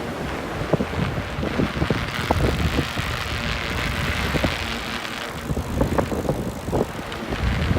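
Wind buffeting the microphone while cycling through a blizzard, with the rumble of the bicycle under it: a steady rushing hiss broken by irregular crackles.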